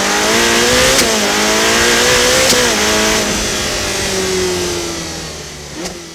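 Racing car engine accelerating hard, climbing in pitch and dropping back at gear changes about one and two and a half seconds in. It then falls in pitch as it eases off and fades away, with a short sharp click near the end.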